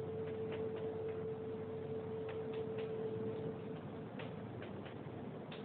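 Chalk tapping and scratching on a blackboard as words are written, a string of short irregular clicks. Under it runs a steady faint hum.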